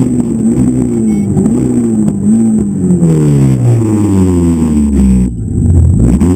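Citroën Saxo rally car's engine heard from inside the cabin, revving up and down. For the last couple of seconds the engine speed falls steadily, then briefly drops away before it picks up again near the end.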